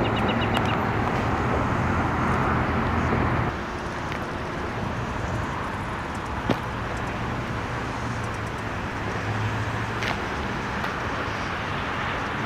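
Steady road-traffic noise from a nearby highway, with a low engine hum that drops away about three and a half seconds in. A single sharp click about halfway through.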